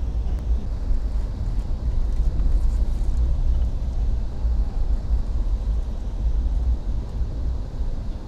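Steady low rumble of a moving vehicle heard from inside.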